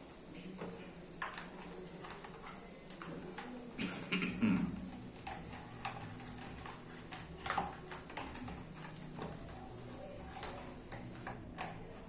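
Scattered clicks and knocks of parts being handled as a replacement motor is fitted into a Kärcher vacuum cleaner's housing. The loudest knocks come about four and a half and seven and a half seconds in.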